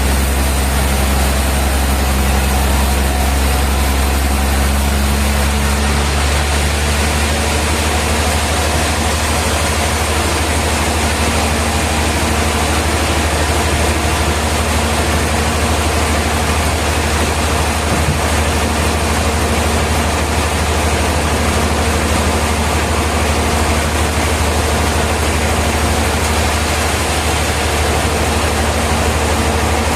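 Heavy sawmill machinery running steadily with a deep, even hum; its lower note shifts slightly about six seconds in.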